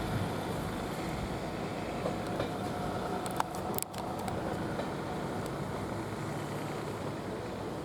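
Train running on the rails: a steady rumble of the moving train with a few sharp clicks, and a brief drop in the sound just before the middle.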